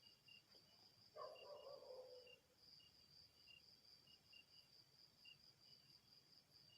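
Faint night insects chirping in a steady, pulsing trill, with sparse short chirps mixed in. About a second in comes a brief low voice-like sound lasting about a second.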